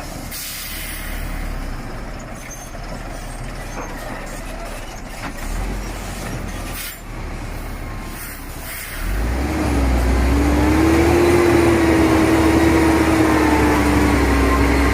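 Heavy truck with short air hisses, then about nine seconds in its engine picks up to a loud, steady run with a whine over the low rumble.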